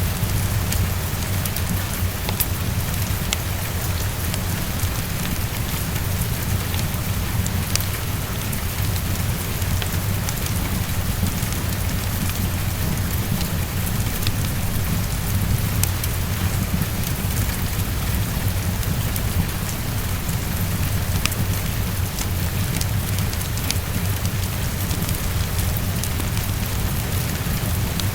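Steady heavy rainfall with a continuous low rumble underneath and scattered sharp crackles from a wood fireplace.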